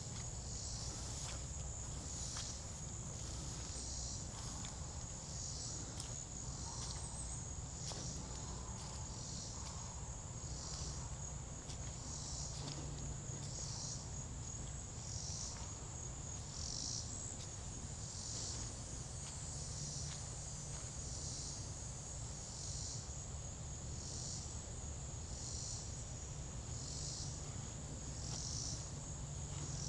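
Insects calling: a steady high-pitched trill with a second pulsed call repeating about once every second and a bit.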